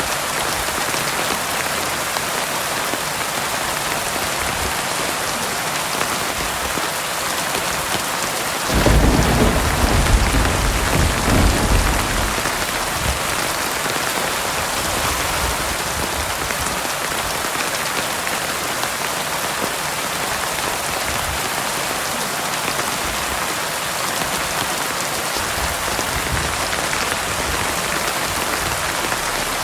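Heavy rain falling steadily on surfaces, with a roll of thunder that breaks in suddenly about nine seconds in and rumbles for about three seconds.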